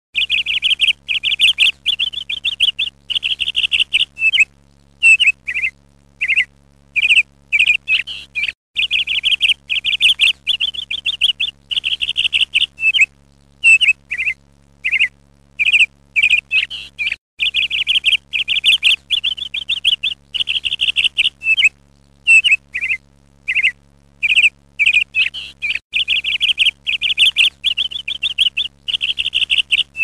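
Bird chirping in quick trilled bursts and short single chirps, over a faint steady low hum. The same roughly 8.5-second stretch of calls repeats like a loop.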